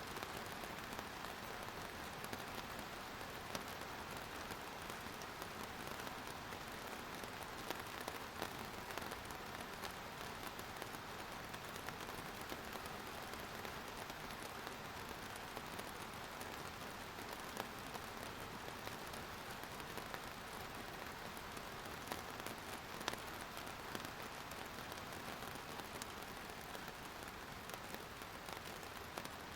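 Steady rain falling, a continuous even hiss with many individual drop ticks scattered through it.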